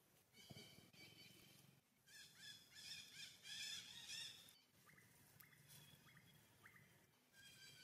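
Faint bird calls: a quick run of repeated chirps about two to four seconds in, then a few short, separate rising chirps.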